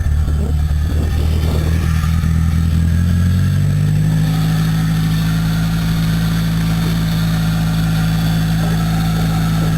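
Toyota 1ZZ-FE 1.8-litre four-cylinder engine of a 2001 Celica GT idling steadily shortly after a cold start. Its tone shifts about three and a half seconds in, and there are a few light knocks in the first two seconds.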